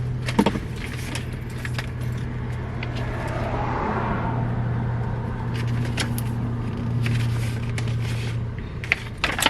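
Rustling and light clicks of owner's manual booklets and paperwork being handled inside a car, over a steady low hum.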